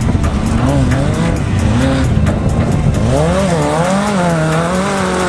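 Air-cooled flat-four engine of a Class 11 VW Beetle race car, heard from inside the car. The engine speed rises and falls repeatedly and climbs sharply about three seconds in, over a steady clatter of rattles.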